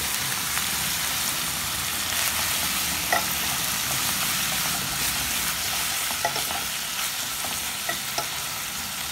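Beef strips and sliced onions sizzling in a pot as they are stirred with a wooden spatula, with a few light knocks and scrapes of the spatula against the pot.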